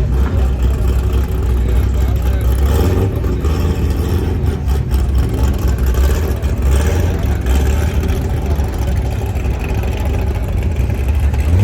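Loud car engine and exhaust rumbling steadily, with voices in the background.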